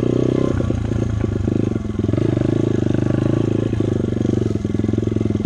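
Dirt bike engine running under way while being ridden, a steady rapid firing pulse with the throttle easing and picking up again about half a second in and near two seconds.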